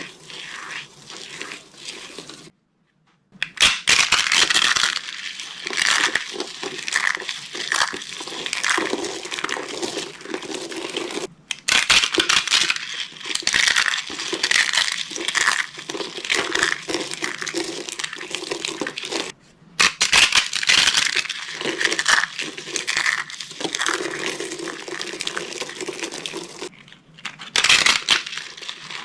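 Dry soap being crushed and crumbled by hand: dense, crisp crackling crunches, broken by brief dead silences three or four times.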